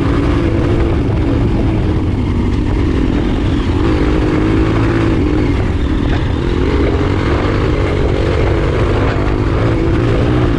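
Trail motorcycle engine running continuously, its pitch wavering up and down with the throttle.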